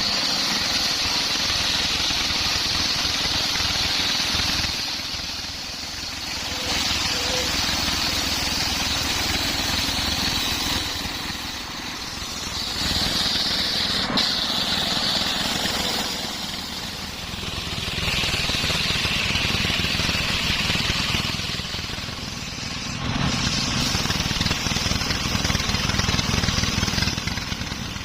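Homemade circular saw cutting through a coconut palm log, running continuously with a high cutting whine whose pitch shifts as it goes. The noise eases off briefly several times between stretches of cutting.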